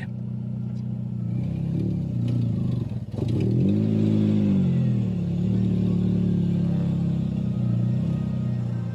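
Car engine running as the car drives along. About three seconds in there is a brief dip, then the engine revs up and eases back down before running steadily again.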